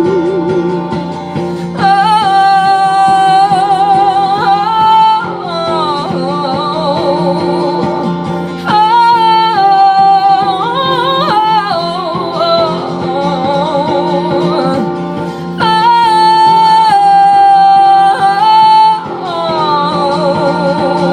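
Music: a wordless sung melody with wavering, long-held high notes over a steady held accompaniment, swelling louder in three stretches.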